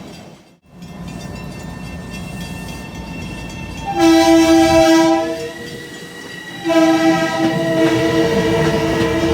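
Long Island Rail Road M7 electric train sounding its multi-tone horn over a steady rumble: a blast of about a second around four seconds in, then a longer blast from near seven seconds on.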